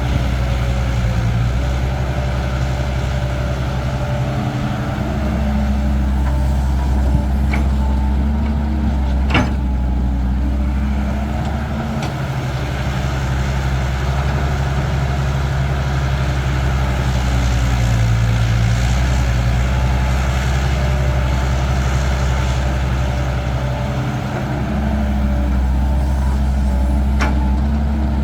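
Cat 312 hydraulic excavator's diesel engine running under working load, its note easing briefly twice. There is a sharp metallic knock about nine seconds in and a few fainter clicks.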